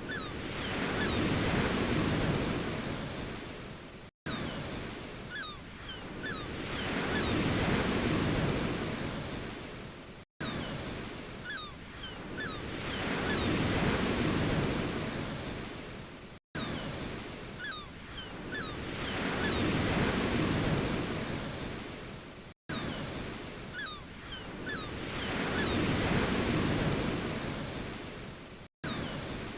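Ocean surf: a wave swells and washes out about every six seconds. It is a short loop, cut off by a brief gap before each repeat, with faint short chirps at the start of every cycle.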